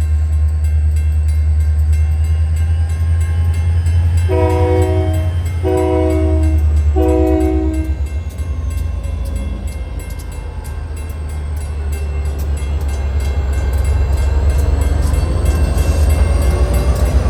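Union Pacific diesel locomotive's air horn sounding three blasts of about a second each, a few seconds in, over the steady low rumble of the locomotive's diesel engine.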